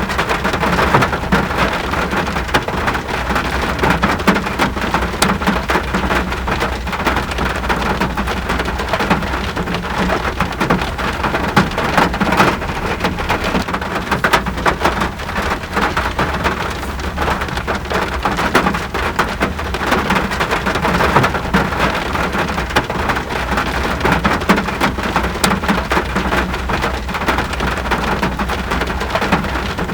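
Steady heavy rain: a dense patter of drops over an even hiss, with a constant low rumble underneath.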